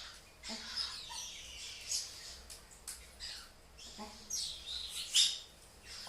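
A bird chirping in a run of quick calls, several sweeping down in pitch, with the loudest about five seconds in.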